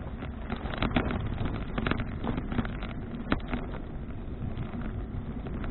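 Wind rumbling on an action camera's microphone while riding a bicycle at speed, with scattered rattling knocks from the bike over the road surface.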